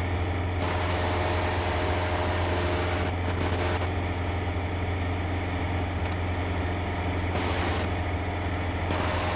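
Cessna 152's four-cylinder Lycoming engine and propeller droning steadily in flight.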